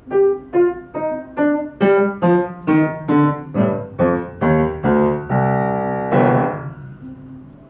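Piano played one note at a time at a steady pace, about two and a half notes a second. Near the end, two held chords ring and fade away.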